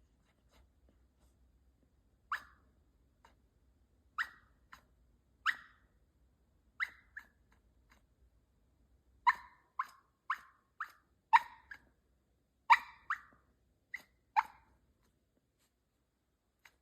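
Sleeping puppy yipping and whimpering in its sleep: a string of short yips, a few seconds apart at first, then coming faster and louder after about nine seconds before stopping.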